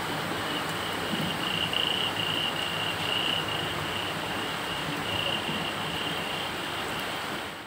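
Steady rushing noise of a train running along a flooded track in rain, heard from its end platform, with a low rumble underneath and a thin high tone that wavers in and out through the middle. The sound fades out near the end.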